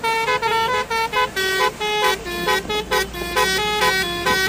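Basuri telolet bus horn playing a fast tune of short, bright horn notes that hop up and down between a few pitches.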